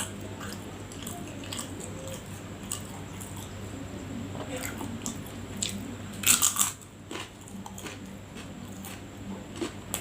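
Close-miked chewing and biting, with scattered small mouth clicks and a cluster of louder crunches about six seconds in.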